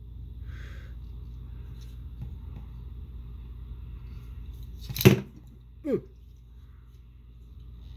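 Steady low hum with faint handling noises, broken about five seconds in by one short, loud noisy burst. A man's voice says "ooh" a second later.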